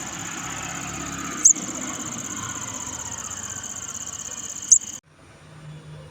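A baby bird giving a short, high chirp twice, about three seconds apart, over a steady high-pitched whine that cuts off suddenly about five seconds in.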